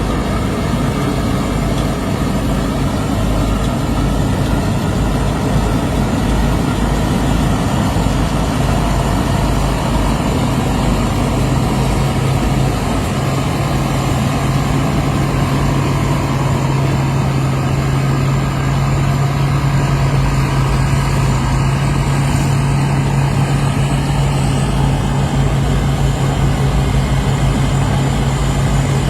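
Worapot combine harvester's diesel engine and machinery running steadily under a continuous low hum, which grows stronger about a third of the way through.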